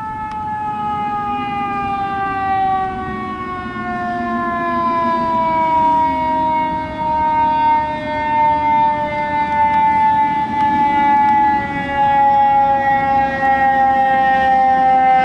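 Fire truck siren sounding with a pitch that slides slowly and steadily downward, growing louder toward the end as the truck approaches.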